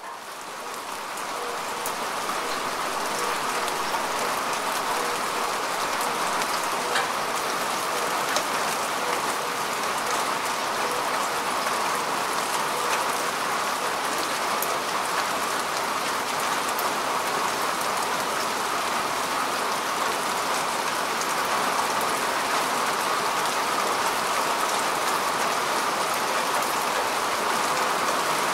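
Steady rain falling on grass and soil: a dense, even patter with scattered sharper drops. It fades in over the first second or two, then holds steady.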